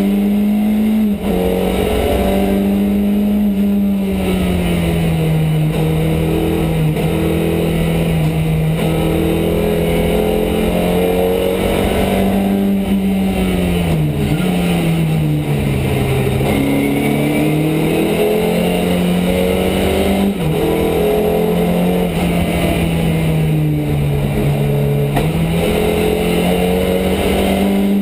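Ford Escort Mk2 rally car's 2.4-litre Pinto four-cylinder engine heard from inside the cabin, loud and working hard. The engine note drops and climbs again several times as the car lifts and changes gear.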